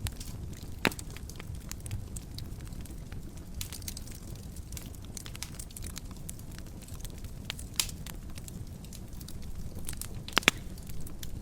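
Wood fire burning in a fireplace: a steady low rumble with scattered crackles and sharp pops, the loudest pop about a second in and two more near the end.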